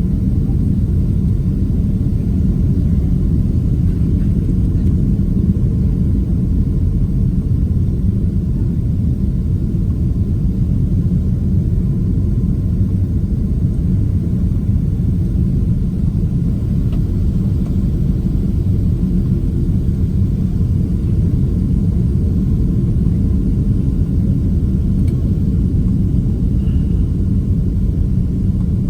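Steady low rumble of a Boeing 767-300 in flight, heard from inside the passenger cabin: engine and airflow noise without any change in pitch or level.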